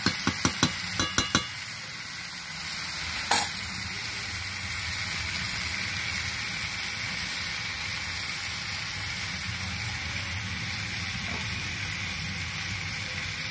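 Chicken, potatoes and capsicum sizzling in hot oil in a kadai, while a spatula stirs them. The spatula knocks against the pan about seven times in quick succession in the first second and a half and once more about three seconds in, then a steady sizzle carries on.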